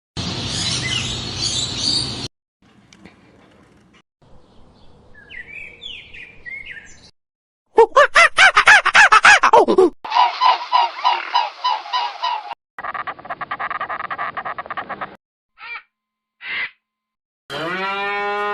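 A string of short animal-call clips cut one after another, mostly bird calls: a loud run of rapid repeated calls in the middle, then pulsing and buzzy calls, each clip starting and stopping abruptly.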